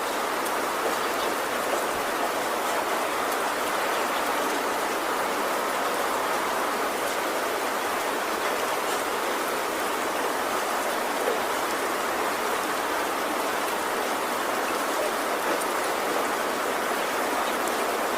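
Heavy rain falling steadily on a tin roof, an even wash of noise with scattered drop clicks.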